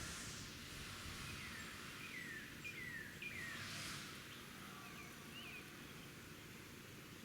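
Small birds at a feeder chirping, with short downward-sliding calls repeated about eight times over a steady outdoor hiss. A brief rush of noise comes just before four seconds in.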